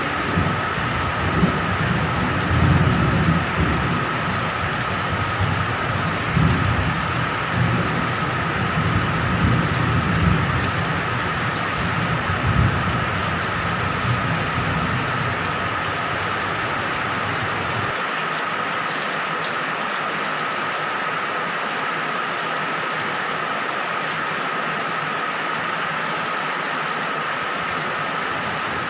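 Steady heavy rain, with low rolling thunder rumbling and swelling underneath for about the first two-thirds, then cutting off suddenly and leaving only the even hiss of the rain.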